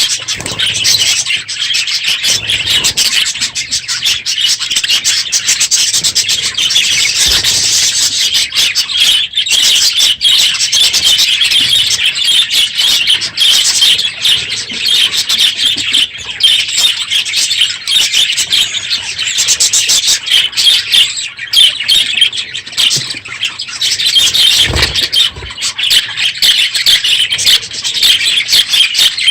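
A large flock of budgerigars in an aviary, chattering loudly all at once in a dense, continuous high chatter of many overlapping calls.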